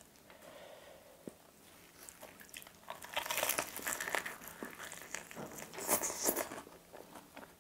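Close-up crunching of a breaded fried chicken drumstick's crispy coating as it is bitten into and chewed, with dense crackling starting about three seconds in and a second burst of crunching near six seconds.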